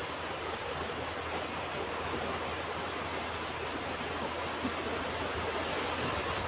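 Ocean waves washing on a beach: a steady, even surf noise with no distinct breaks or impacts.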